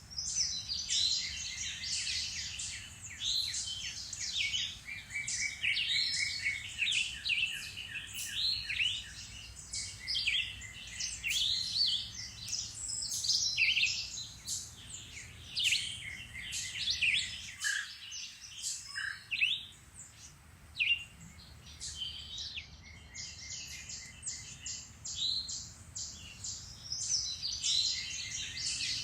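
Several songbirds singing and calling over one another in woodland: a dense mix of quick chirps and trills, with a brief lull just past the middle.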